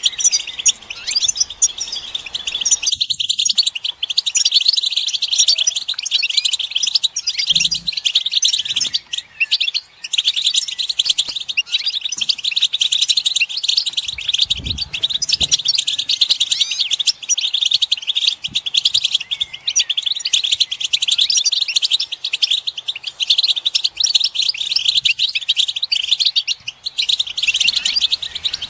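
European goldfinches twittering in a dense, unbroken chorus of rapid high chirps and trills: the group chatter and mating calls that set a male goldfinch singing.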